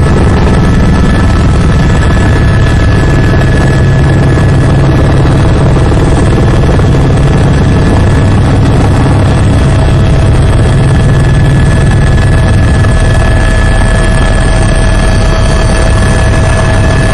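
Mi-17 helicopter's twin turboshaft engines and rotor running: a loud, steady rumble with constant turbine whine tones over it.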